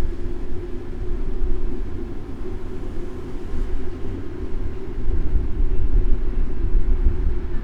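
City street traffic heard from a moving bicycle, with wind rumbling unevenly on the bike-mounted camera's microphone.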